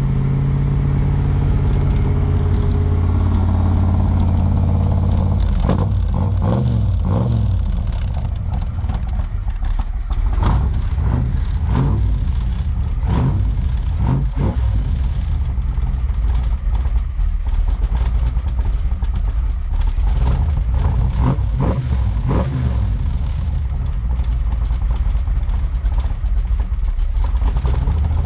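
Craft Performance 427 Windsor V8 in a Backdraft Racing RT4 running just after a cold start, with a fast idle at first. Through the middle the throttle is blipped several times, the revs rising and falling quickly each time.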